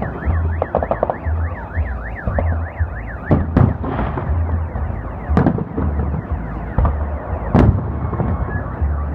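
Fireworks salute going off: several sharp booms and bursts of crackling, while a car alarm warbles rapidly up and down until about three seconds in.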